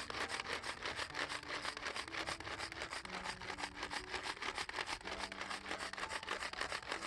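Rapid knife chopping on a wooden cutting board, about ten quick strokes a second, as ingredients are minced for the filling.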